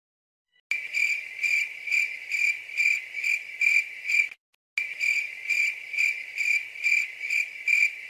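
Cricket chirping sound effect: a high, steady trill that pulses about twice a second. It starts after a short silence and breaks off briefly a little past halfway before resuming.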